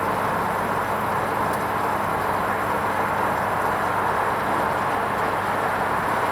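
Hoover Vision HVP16 washing machine running steadily through its wool rinse programme: an even, unbroken noise with a faint low hum.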